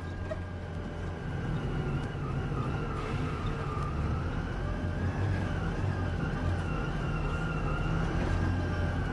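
Volvo B9R coach running on the road, a low engine drone under a continuous high-pitched squeak that wavers slowly up and down in pitch.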